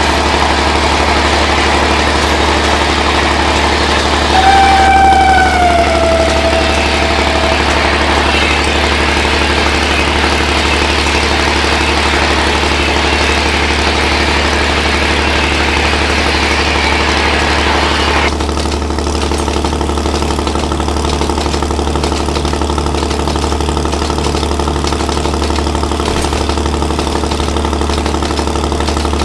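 Diesel train engine running steadily with a loud low drone, and a horn sounding once for about three seconds around four seconds in, its pitch sagging at the end. About eighteen seconds in, the higher hissing part of the noise cuts off suddenly while the engine drone goes on.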